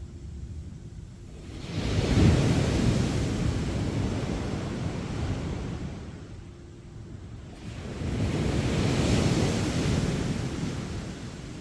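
Sea waves breaking on a beach: two waves crash about six seconds apart, each a broad wash of surf that swells up suddenly and fades over several seconds, with quieter lulls between. Some wind on the microphone.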